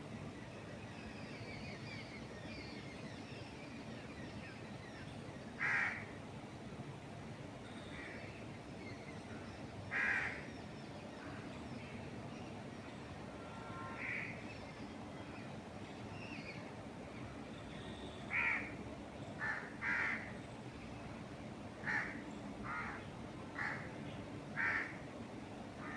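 A crow cawing: single harsh caws several seconds apart, then a quicker run of caws in the last third. Beneath them is a steady hush of wind in the trees and the faint chirping of small birds.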